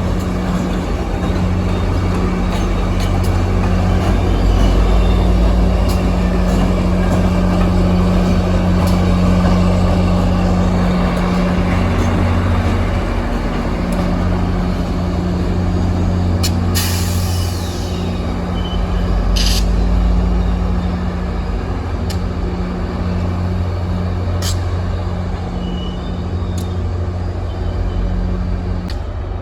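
Train locomotive running steadily with a constant low hum. Brief sharp air hisses come about two-thirds of the way through, typical of air brakes venting.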